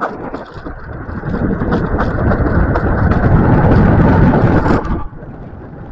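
A scooter jolting and rattling over badly broken pavement, a dense, loud rumble of knocks and road noise that builds over several seconds, then drops off sharply about five seconds in.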